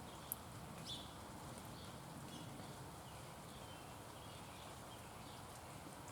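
Faint outdoor ambience with scattered short, high chirps from small wild birds, a single sharp click just after the start, and a brief falling chirp about a second in.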